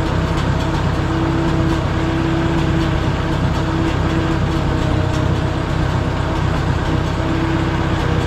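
Case 310 crawler dozer's engine running steadily while the machine moves, with a whine that comes and goes.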